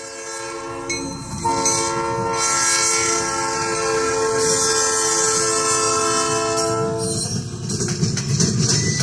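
Train locomotive horn sounding one long chord as a grade-crossing warning; it swells about a second and a half in and cuts off about seven seconds in. After that comes a rapid clatter of the train's wheels over the rails.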